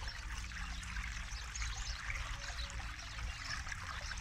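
Forest river flowing: a steady rush of water with a constant trickling, splashy babble.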